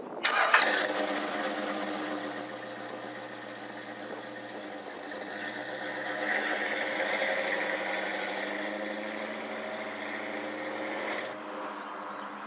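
Ford Mustang GT350's carbureted V8 engine starting with a sudden burst and running steadily, picking up somewhat around the middle, then stopping abruptly near the end.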